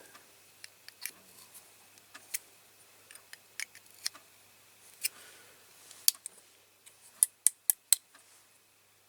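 Small metal clicks and taps of pliers working a thin tin part of a diecast toy as it is straightened. The clicks are scattered, with four louder ones in quick succession about seven seconds in.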